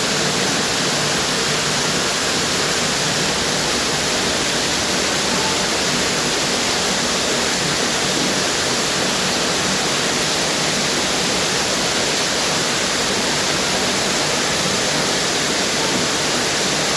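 Tropical waterfall: a steady, even rush of falling water that does not change.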